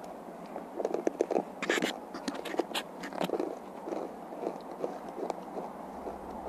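Someone chewing and biting a s'more, with irregular crunches of graham cracker, loudest in the first half.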